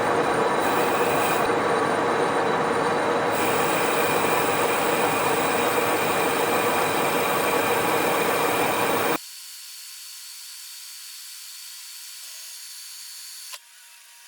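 Metal lathe running and cutting metal: a loud, steady machining noise with a held high tone. It cuts off abruptly about nine seconds in, leaving a fainter, thin hiss.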